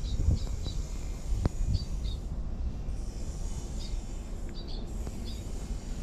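Small birds chirping in short high calls, often in pairs, over a steady low rumble.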